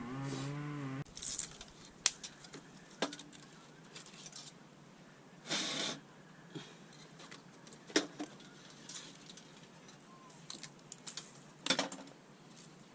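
Wood fire crackling with scattered sharp pops and snaps on a low hiss, one longer hissing burst about halfway through. A low held pitched sound stops about a second in.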